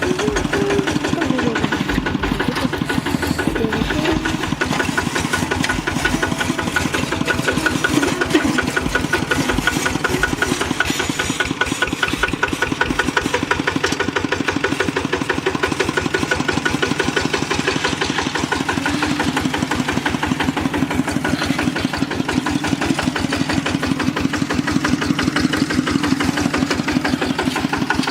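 Kubota RT single-cylinder diesel engine of a walking tractor running steadily, its firing beats fast and even.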